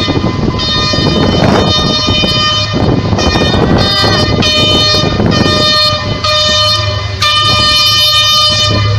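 Train horn sounding in a run of short blasts about a second apart, then one long held blast from about seven seconds in, over a rumble that fades.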